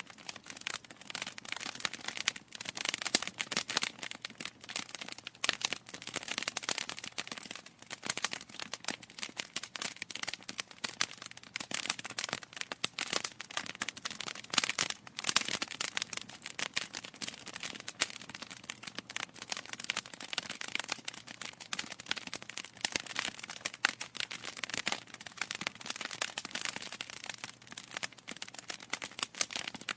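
Wood fire in a fireplace crackling, with dense, irregular pops and snaps of burning logs over a soft hiss.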